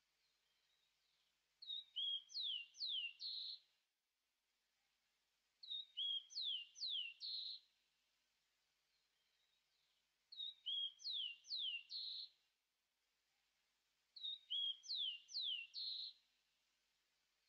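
A songbird singing a short phrase of a few high, downward-sliding notes, repeated four times at about four-second intervals, with faint background hiss between phrases.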